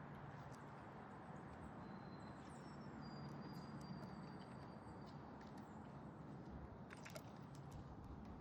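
Faint backyard ambience: a steady low hum under thin, high, drawn-out bird notes, one held for about two seconds. A few sharp clicks come about seven seconds in.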